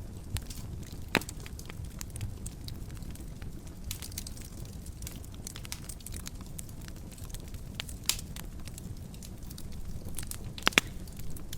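Fire in a fireplace crackling over a low, steady rumble, with scattered sharp pops. The loudest pops come about a second in and near the end.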